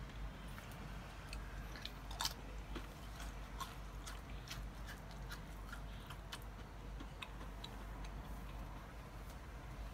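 Crunching and chewing of a crisp baked potato chip: irregular sharp crackles, several a second, loudest about two seconds in and thinning out near the end, over a faint steady low hum.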